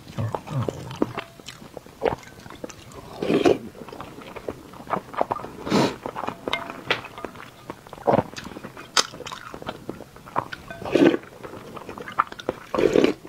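Close-miked eating sounds: a person chewing, with wet mouth clicks and smacks and a few louder short bursts every couple of seconds.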